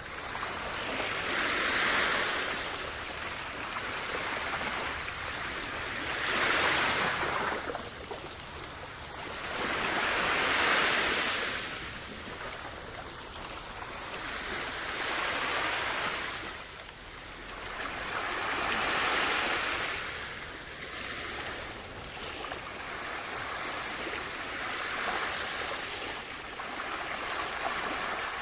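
Sea waves washing onto a shore, a hissing surf that swells and falls back about every four to five seconds.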